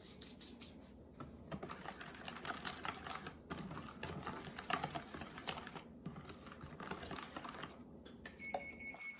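Rapid, irregular clicking and tapping, dense and continuous. A steady electronic beep tone starts shortly before the end.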